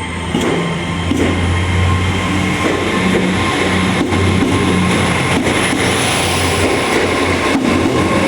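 Diesel passenger train running through the station close by: a steady low engine drone, the wheels clicking over rail joints at uneven intervals, and a thin high wheel squeal held throughout.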